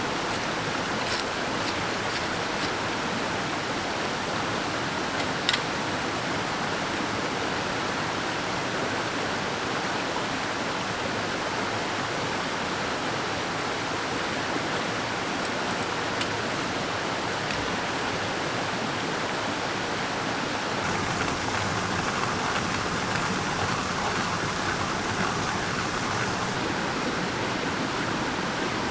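Mountain stream running steadily, with a few faint clicks and one sharper click about five seconds in.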